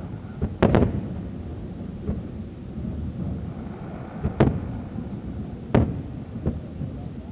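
Aerial fireworks shells bursting with sharp bangs at uneven intervals, each trailing a rolling echo. A quick cluster of bangs comes in the first second, then two strong single bursts later, with fainter ones between.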